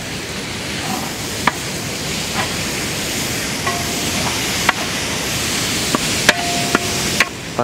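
Chopped tomatoes and green chillies sizzling in hot oil in a large metal pot, stirred with a perforated metal ladle that clicks and scrapes against the pot a few times, once or twice with a brief metallic ring.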